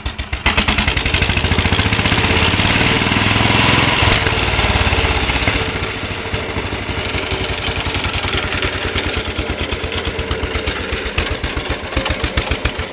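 A 1947 Trusty tractor's JAP engine of about 500cc revved sharply from idle about half a second in and held at high revs for roughly five seconds. It then falls away and settles back to a steady, even idle, with its separate firing beats plainly heard.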